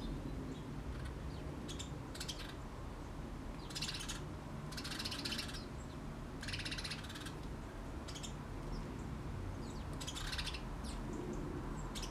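Small birds chirping outdoors in several short, buzzy, pulsed bursts spaced a second or more apart, over a steady low background rumble.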